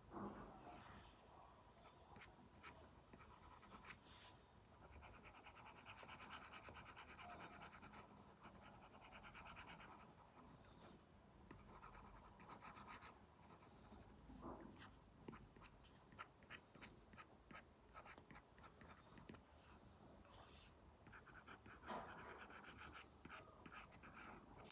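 Apple Pencil nib scratching and tapping on an iPad screen covered with a paper-like matte film, faint. Runs of quick back-and-forth strokes, with single taps in between.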